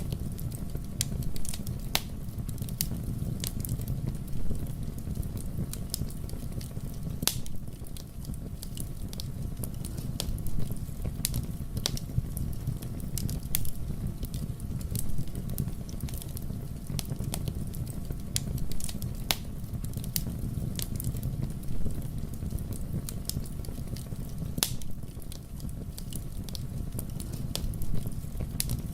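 Fire burning in a fireplace, crackling: sharp, irregular pops and snaps over a steady low rumble of the flames.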